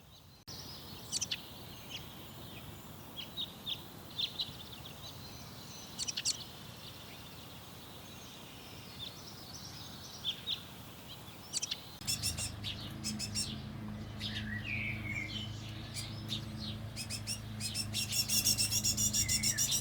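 Small garden birds chirping in scattered short calls. About twelve seconds in, a steady low hum joins, and near the end the chirping becomes a dense, fast, louder chatter.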